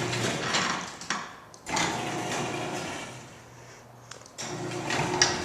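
LiftMaster 1/2 hp belt-drive garage door opener running with a steady motor hum, driving its trolley along the rail to re-engage the released door. The trolley does not latch onto the door. The sound eases off in a lull about three seconds in, then picks up again.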